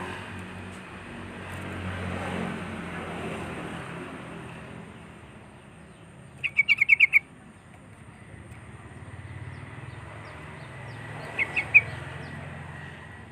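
Yellow-vented bulbul (trucuk) calling: a quick bubbling run of about six notes about halfway through and a shorter run of three near the end, over a low steady rumble.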